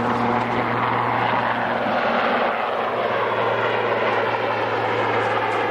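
Rescue helicopter hovering for a winch lift: a steady low rotor and engine drone with a rushing turbine noise that swells through the middle.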